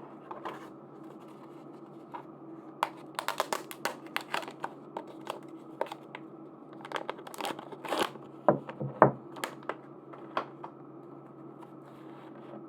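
Packaging being opened by hand: crinkling and tearing with a dense run of sharp crackles and taps, busiest from about three seconds in until near the end, with a couple of duller knocks in the middle. A faint steady hum lies underneath.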